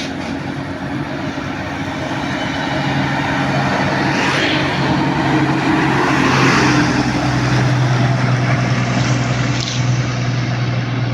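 A large truck engine running steadily close by at an even pitch, growing a little louder a few seconds in.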